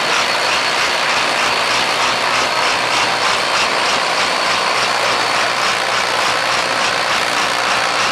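Vintage farm tractor's engine running loud and steady, with a fast, even beat.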